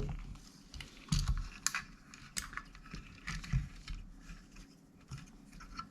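Irregular small clicks, taps and a few dull knocks of tools and parts being handled on a workbench.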